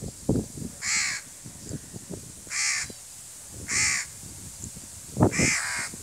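A bird calling four times with short, harsh calls spaced about a second and a half apart, with a few low bumps on the microphone, the loudest near the end.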